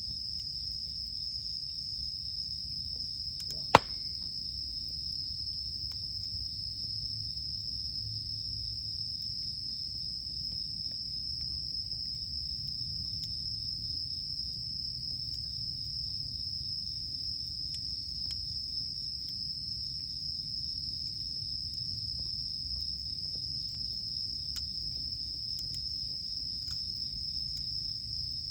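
Insects, crickets by their sound, trilling steadily and without a break over a low noisy rumble, with faint scattered crackles from a wood campfire. A single sharp pop about four seconds in is the loudest sound.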